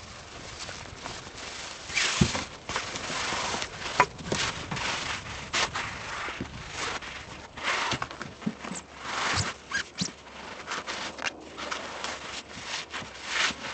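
Irregular crunching and rustling of footsteps and movement in packed snow, with a few sharp clicks.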